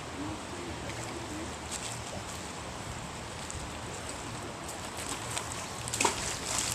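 Steady outdoor background noise, with a cluster of sharp clicks and knocks near the end.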